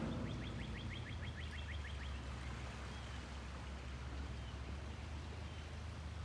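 A bird sings a rapid trill of short falling notes, about seven a second, for roughly the first two seconds, then gives a few faint single chirps. Under it runs a steady low rumble.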